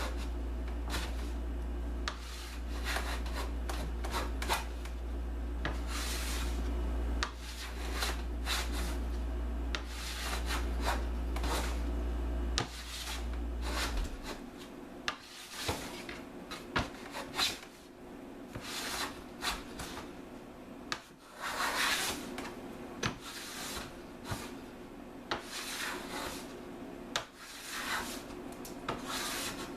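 Restored antique hand plane being pushed along a board in repeated short strokes, its blade scraping and shaving the wood as it is tried out. A low hum underneath stops suddenly about halfway through.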